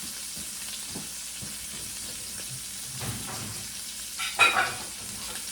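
Tri-tip steaks sizzling in a frying pan, a steady hiss, with a short clatter about four seconds in.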